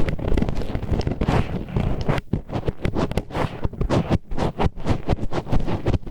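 Disposable wooden chopsticks used as an ear pick, scraping and grinding against an ear microphone in quick, irregular strokes, several a second and close up.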